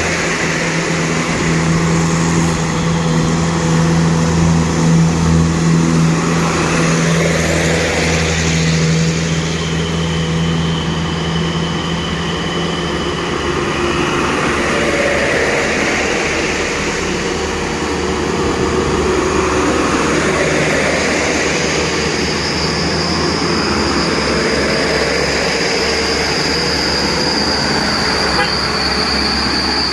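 Medium trucks driving along a narrow road, their engines running steadily with road noise.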